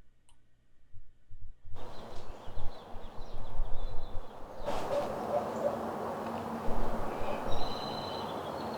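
Outdoor ambience switched on after near silence about two seconds in: a steady background noise with a low rumble that grows louder halfway through, and birds chirping faintly, more clearly near the end.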